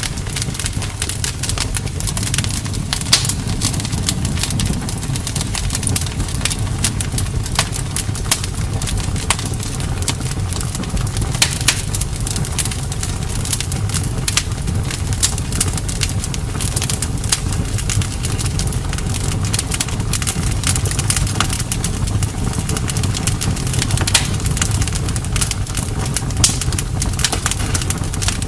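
Wood campfire crackling, with frequent sharp pops and snaps over a steady low rumble of burning.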